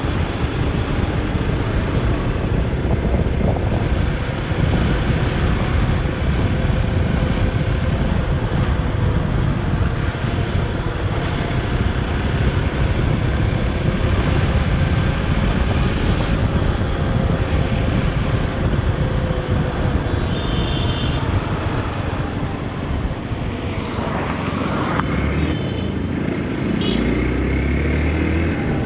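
Motorcycle riding in city traffic: its engine running steadily under wind rush on the microphone, with the engine note drifting up and down with road speed.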